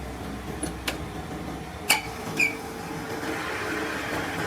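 A few short, sharp clinks and taps, three in all, the last two ringing briefly, over a steady background hum and hiss.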